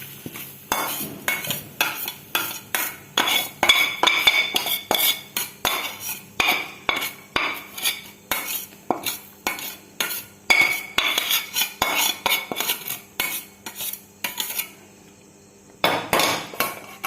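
A metal spoon scraping and knocking against a pan as cooked filling is scooped out onto a plate, about two knocks a second with a light metallic ring. The knocks stop near the end, followed by one last short clatter.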